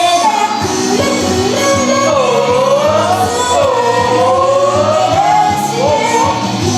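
Japanese idol pop song: a woman sings a gliding melody over a backing track with a steady low beat.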